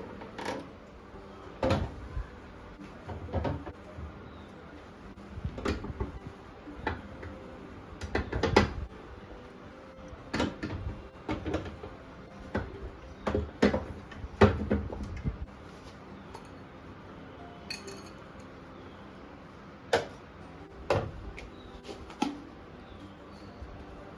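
Kitchen dishes and containers being handled: irregular clinks and knocks of items set down and moved about, in clusters with short pauses between.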